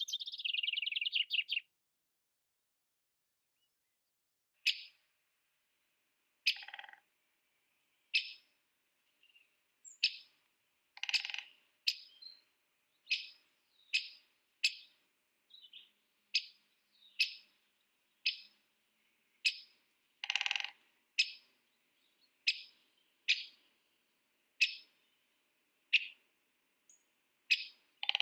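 Bird calls: a brief rapid trill at the start, then after a pause a long series of short, sharp chirps repeated about once a second, over a faint steady high tone.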